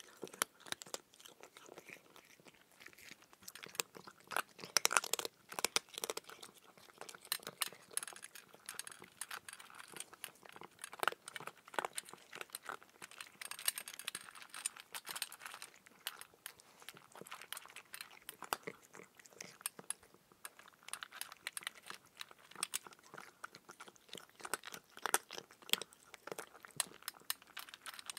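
Raw cucumber being bitten and chewed close to the microphone: an irregular, steady run of crunches.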